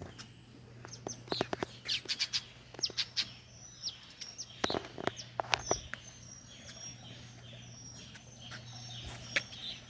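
Birds chirping: clusters of short, sharp calls, busiest in the first six seconds, with one more loud call near the end.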